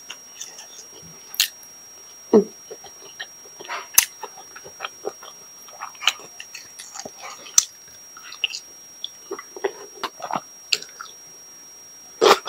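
Close-miked chewing and biting of food, wet mouth crackles and small irregular sounds picked up by a clip-on lapel microphone, with a few sharp clicks along the way. A faint steady high-pitched tone runs underneath.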